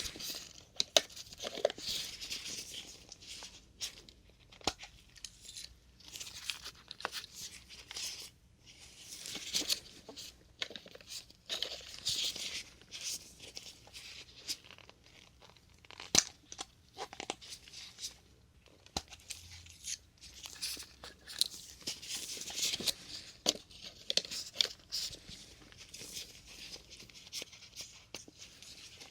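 Plastic syringe caps being pulled off one after another: sharp pops and clicks among bursts of crinkly, rustling plastic handling noise.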